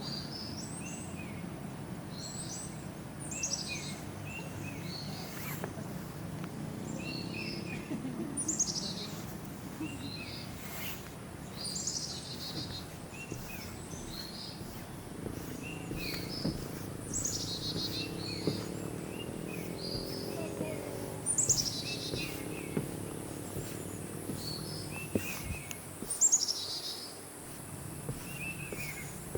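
Forest birds calling over and over: high chirps that sweep downward, mixed with short higher and lower notes, about every one to two seconds, over a steady low background noise.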